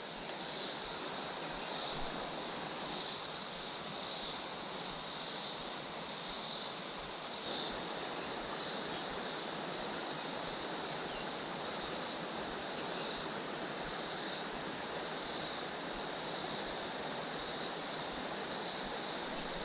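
Creek water running steadily over rocks, with a high, steady buzz above it that drops off abruptly about seven and a half seconds in.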